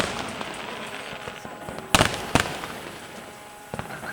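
New Year fireworks display: aerial shells bursting with sharp bangs, a loud pair about two seconds in and another near the end, with crackling between the bursts.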